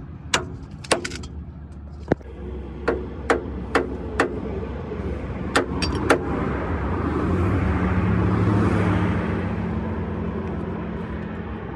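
About a dozen sharp metallic knocks over the first six seconds, then a road vehicle passing close by, its engine and tyre noise building to a peak and fading away.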